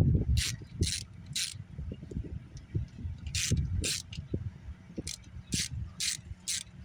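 Socket ratchet working bolts loose on a car engine: a short ratcheting scrape every half second or so, in irregular runs, over a low rumble.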